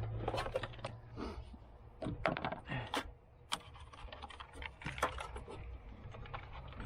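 Irregular light clicks and knocks of tools and metal parts being handled, with a faint low hum underneath.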